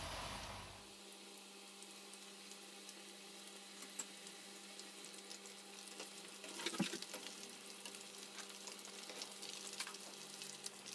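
Battered chicken pakoras deep-frying in hot oil in a frying pan: a faint, steady sizzle with fine crackling. About two-thirds of the way in, a brief louder scrape as a wire skimmer stirs the pieces.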